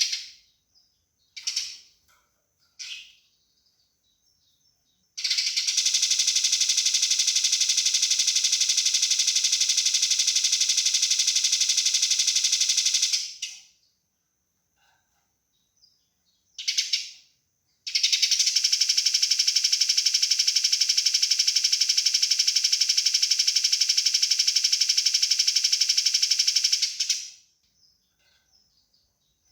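Eurasian tree sparrow fighting calls: a couple of short chirps, then two long runs of very rapid, tightly packed chattering, each lasting about eight seconds, with a short chirp and pauses between them.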